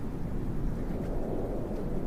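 Steady low rush of winter wind, a deep even whoosh with no gusts standing out.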